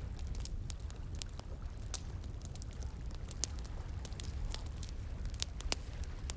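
Wood fire crackling, with irregular sharp pops several times a second, over a steady low rush of flowing water.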